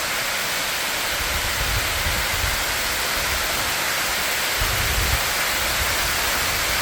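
Waterfall swollen with spring runoff, its water crashing down in a steady, loud rush, with a few brief low rumbles about two and five seconds in.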